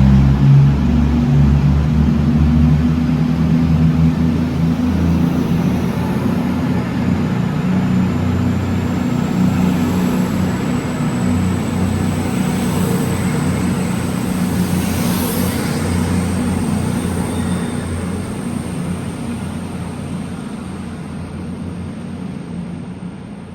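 A train's engine running, with a faint high whine rising slowly, the sound gradually fading away as the train moves off.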